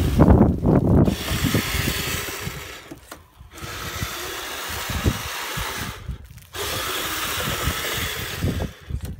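Kyosho Blizzard RC snowcat's electric drive whining steadily as it runs on throttle. The whine cuts out briefly twice, around three and six seconds in, as the throttle is let off. Low rumbling knocks come with it, heaviest in the first second.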